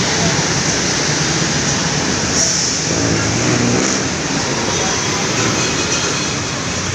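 Steady, loud road traffic noise: vehicles running past on a busy road.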